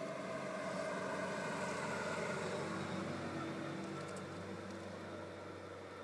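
A motor vehicle passing by, its engine sound swelling over the first couple of seconds and then slowly fading.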